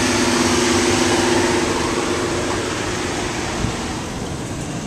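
Steady vehicle noise with a rushing hiss and a low two-note hum that fades away over the first few seconds.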